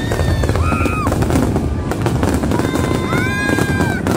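Fireworks crackling and popping densely over a steady low rumble, with a few short high tones that rise and then fall.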